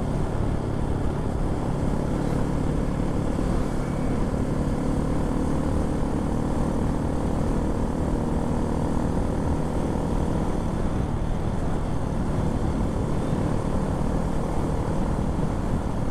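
Honda MSX125 minibike's single-cylinder engine running at a steady cruising speed, a constant drone, with wind rushing over the microphone.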